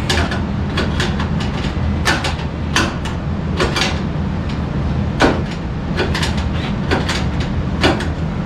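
Irregular sharp metallic clicks and knocks of hand tools and sheet-metal furnace parts being handled, about a dozen of them, the loudest about five seconds in, over a steady low hum.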